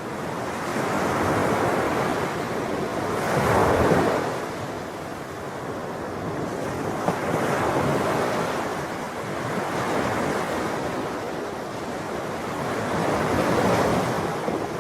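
Sea waves breaking and washing up the shore in a continuous surf wash that swells and falls every few seconds, the biggest surge about four seconds in.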